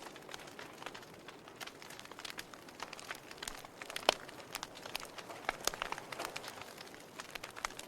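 Wood fire burning in a fireplace: irregular sharp crackles and pops over a soft hiss, with one louder pop about four seconds in.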